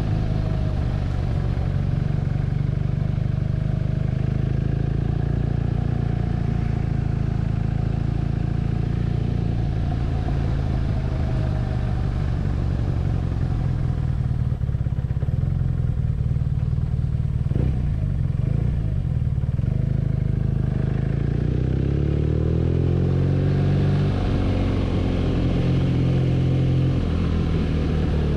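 BMW R nineT's 1170 cc air/oil-cooled boxer twin running under way, easing off about halfway through, then pulling hard again with its pitch rising and dropping through several gear changes near the end.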